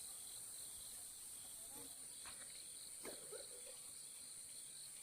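Insects trilling in a steady, high-pitched chorus, with a few faint knocks about two and three seconds in.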